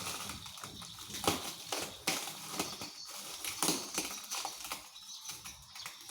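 Parcel packaging rustling and crinkling as it is handled and opened, with irregular sharp crackles and clicks.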